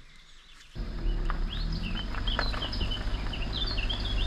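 Quiet at first, then about a second in a sudden louder stretch of many short, quick bird chirps over a steady low rumble, with a few clicks.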